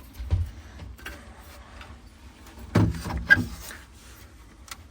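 Clicks and knocks of boiler parts being handled and set down, with a louder knock and a short metallic clink about three seconds in.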